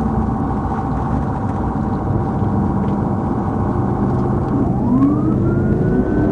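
Police car at pursuit speed, with steady engine and road noise, and a siren wail that starts rising about three-quarters of the way through.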